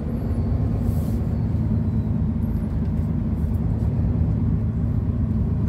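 Steady low drone of a long-haul truck's diesel engine with road noise, heard inside the cab while cruising.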